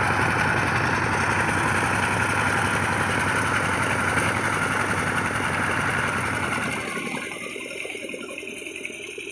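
Power tiller's single-cylinder diesel engine running with a rapid, steady chug. About seven seconds in it becomes noticeably quieter and duller.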